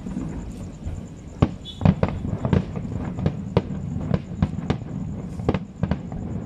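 Aerial fireworks shells bursting: more than a dozen sharp bangs at irregular spacing, starting about a second and a half in, over a steady low rumble.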